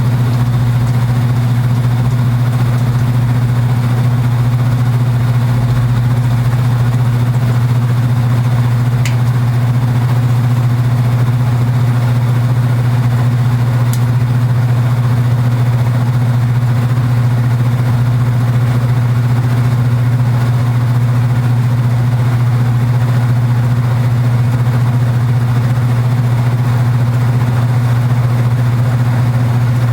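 Kenmore belt-drive portable washing machine running steadily with a loud, even low buzz, typical of this machine's cabinet, which is known to buzz. Two faint ticks, about nine and fourteen seconds in.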